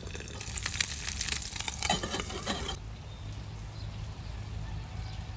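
Eggs frying in oil in a pan, sizzling with sharp crackles and pops. The sizzle cuts off abruptly about three seconds in, leaving a low steady hum.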